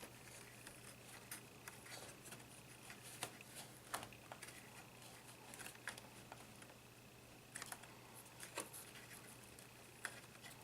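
Faint, scattered clicks and taps of a laptop's plastic case and small parts being handled and worked on during disassembly, over a faint steady hum.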